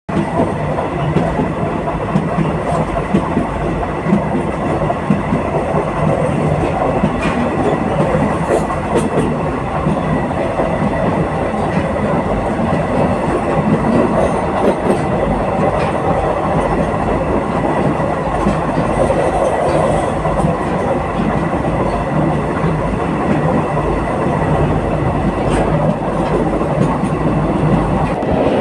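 A passenger train running steadily on the rails, heard from aboard: a continuous rumble of wheels and carriage, with a few faint clicks scattered through it.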